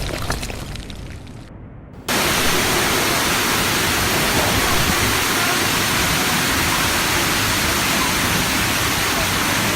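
A thunderclap's rumble dying away over the first two seconds, then a sudden cut to a steady, loud rushing hiss of a heavy downpour that holds unchanged.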